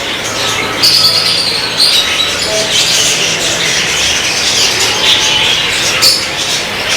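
Many small caged birds chirping and squawking together in a dense, continuous chorus of high, short calls, with a few brief whistled notes.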